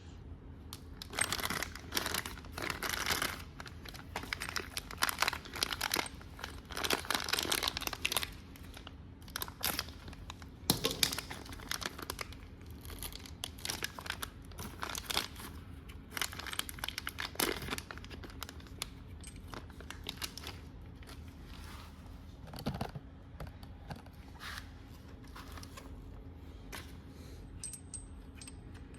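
Irregular bursts of crinkling and rustling from something being handled, dense for most of the first twenty seconds, then thinning to occasional faint sounds.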